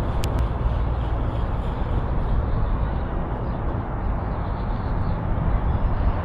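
Steady outdoor background noise: a low rumble under a broad hiss, with two short clicks just after the start.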